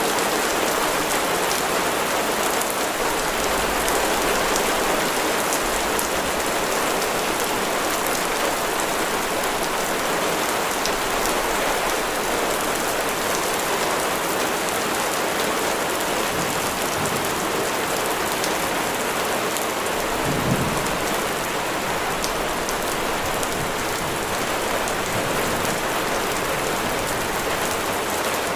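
Steady rain falling on a surface, an even hiss with scattered drop ticks. About twenty seconds in there is one brief low thump.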